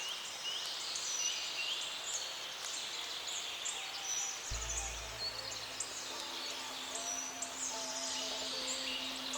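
Small birds chirping and singing over outdoor background noise. A low steady rumble comes in suddenly about halfway through.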